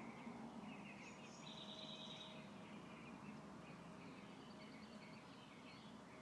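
Faint birdsong: several birds chirping, with a higher, brighter call about a second in, over a low steady background hiss.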